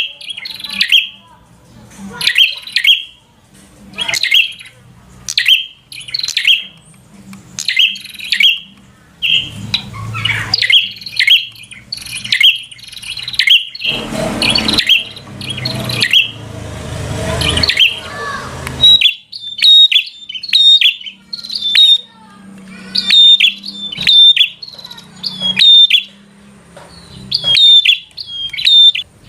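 Prenjak (prinia) birds giving repeated sharp, scolding chirps in bursts about once a second, with a noisier rustling stretch midway and quicker, sharper chirping through the second half: the agitated 'fighter' calls used to rouse a rival prenjak.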